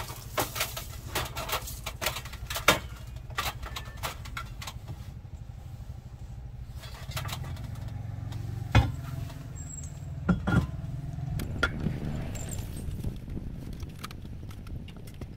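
A steady low motor hum with many short clicks and knocks scattered over it, and two sharper knocks in the middle.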